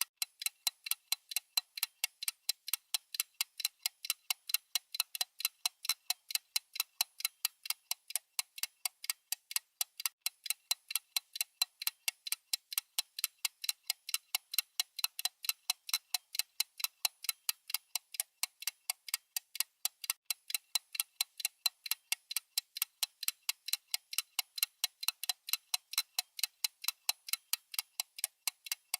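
Clock-style ticking sound effect of a countdown timer: crisp, even ticks, several a second, in a steady unbroken run.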